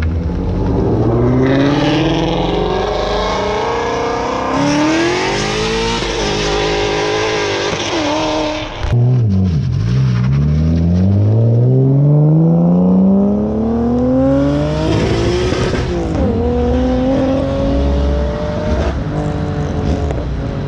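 A motor vehicle's engine accelerating hard, its pitch climbing steadily, dropping at a gear change about 9 seconds in and again near 16 seconds, then climbing again. A loud rushing hiss rises over the engine during the hardest pulls.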